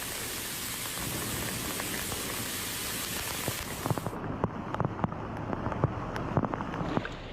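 Heavy rain and floodwater: a dense, steady hiss that drops away about four seconds in, leaving scattered sharp splashes and drips.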